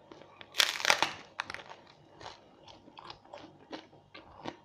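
A person bites into a slice of pizza with a loud crunch about half a second in, then chews with smaller crunches close to the microphone.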